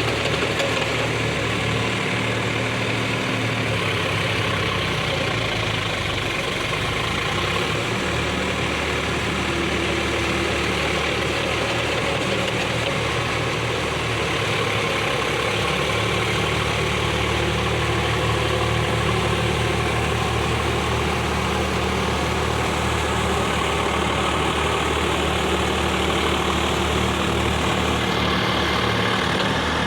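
Sonalika four-wheel-drive tractor's diesel engine running steadily, its pitch shifting slightly a few times.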